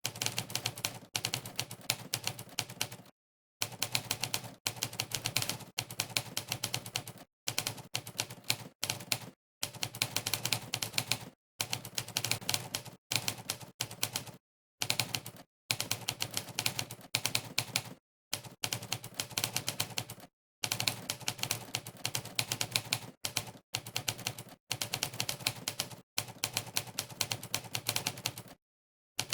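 Monkeytype's typewriter keypress sound effect: a recorded typewriter key strike played for every keystroke of fast typing, in rapid runs of clicks broken every second or two by brief gaps of dead silence.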